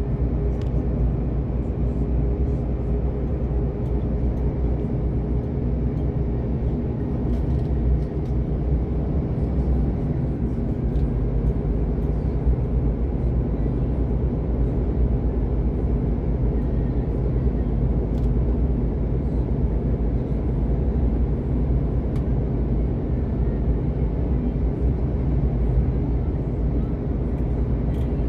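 Steady low rumble of a vehicle in motion, with a constant hum running through it.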